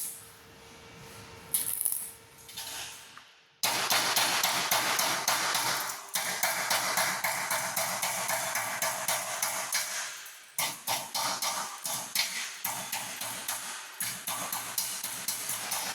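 Stick welding arc crackling on thin galvanized steel square tubing, a dense irregular crackle that starts abruptly a few seconds in and breaks off briefly twice before picking up again.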